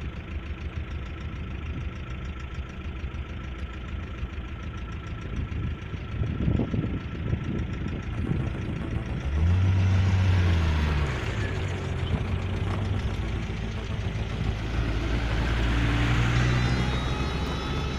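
Vehicle engine running, revving up and back down about ten seconds in.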